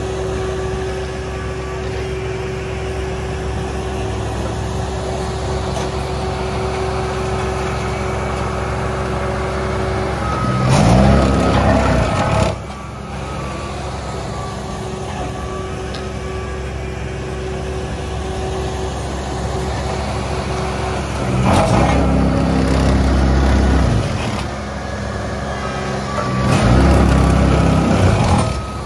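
Heavy diesel road-paving machinery running steadily, its engine surging louder three times, about ten, twenty-one and twenty-six seconds in. A reversing alarm beeps during the first few seconds.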